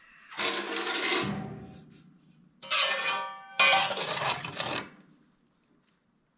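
Metal pieces clanking and ringing: three sharp knocks, each ringing briefly before it fades.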